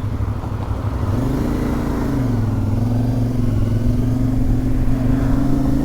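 Motorcycle engine running under way, its note rising about a second in and then holding steady, with wind and road noise.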